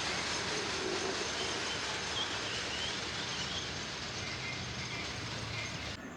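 Train running by on the rails, a steady rushing rumble that slowly fades and drops off abruptly just before the end.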